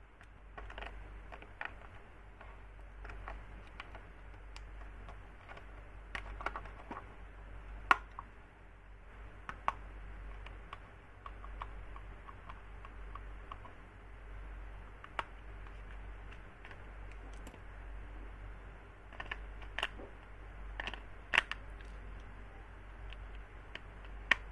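Irregular light clicks and taps, like plastic toy parts or packaging being handled, with a few sharper knocks, over a steady low hum.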